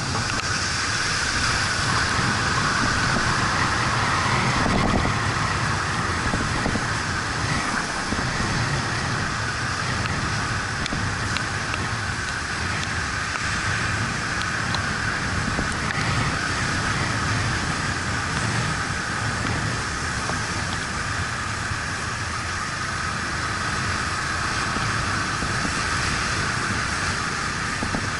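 Steady road noise from a motorcycle ride in the rain: the Yamaha MT-125's single-cylinder engine running under wind rush and the hiss of tyres on wet road.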